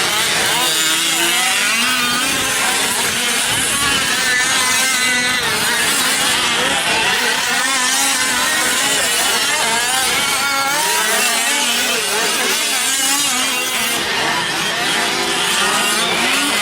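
Several 5th-scale RC trucks' small two-stroke gasoline engines running together, their pitches constantly rising and falling as the drivers throttle on and off around the track.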